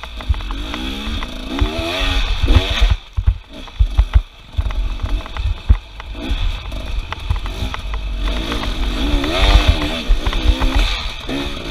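Small off-road engine revving up and down over and over, under heavy low rumbling and thumping. The revving drops out briefly about three to four seconds in, then picks up again.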